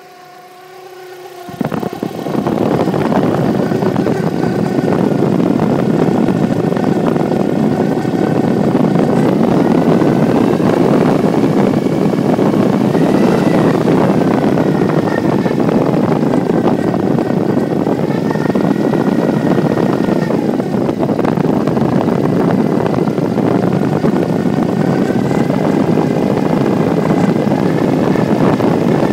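Nissan 200SX S13 engine running steadily, with a faint whine that slowly wavers in pitch above the engine noise. These are the strange noises that appeared after a timing belt change. The sound is quieter for the first second or so, then settles into a loud, even run.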